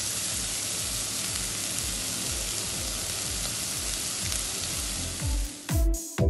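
Minced chicken and onion sizzling steadily as they fry in a non-stick pot, over electronic music with a steady kick-drum beat. The sizzle cuts off suddenly near the end, leaving only the music.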